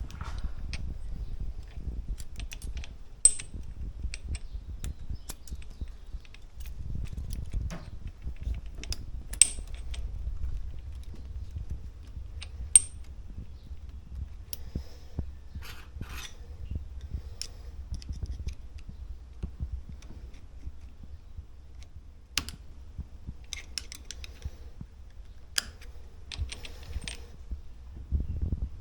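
Small metal parts and tools clinking and tapping during hand reassembly of a dirt bike shock absorber: scattered light clicks, three sharper clinks in the first half, over a low steady rumble.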